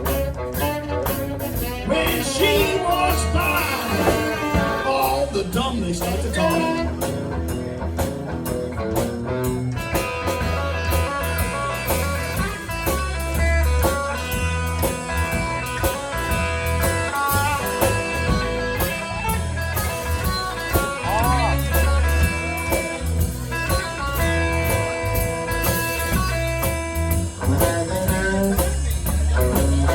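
Live blues band playing an instrumental stretch with guitar and drum kit, a lead instrument bending notes at first and then holding long, sustained notes over the steady beat.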